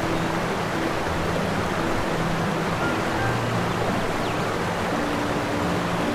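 Steady rush of surf on a sandy beach, with soft background music of held low notes.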